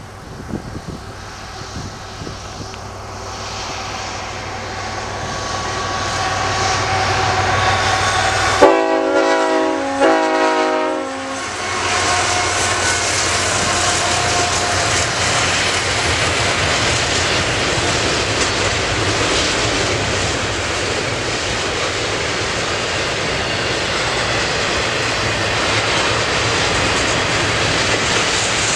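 CN diesel freight locomotive approaching, its rumble growing louder, then its multi-chime horn sounding two blasts, about three seconds in all, some nine seconds in. After the horn comes the steady rumble and clatter of double-stacked intermodal container cars rolling past.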